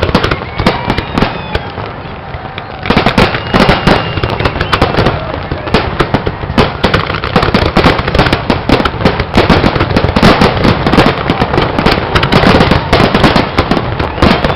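Fireworks display: a rapid, dense string of bangs and crackles. It thins out briefly after the start, then becomes a near-continuous barrage from about three seconds in.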